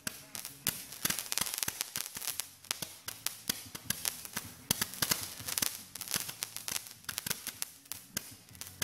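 Fireworks going off: many sharp pops and crackles in quick succession, bunched in clusters every second or so.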